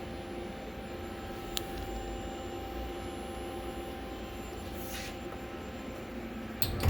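Steady hum of a Mori Seiki MV40 vertical machining center standing powered up with its door open, with one faint click about a second and a half in.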